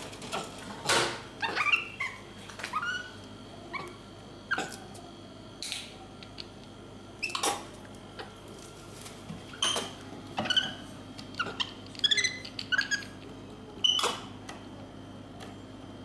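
An animal's short squeaky calls at irregular intervals, many of them sliding down in pitch, mixed with a few sharp knocks.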